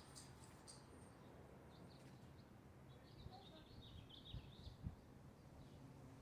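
Faint bird chirps, beginning about three seconds in, over a low steady rumble of wind on the microphone. Two soft low thumps come a little after four seconds.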